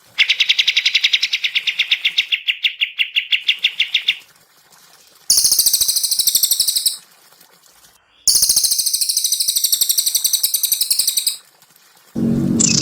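Songbird singing. First comes a fast run of repeated notes, about a dozen a second, lasting around four seconds. Then come two dense, very high trills of a second or two and about three seconds, with short pauses between them.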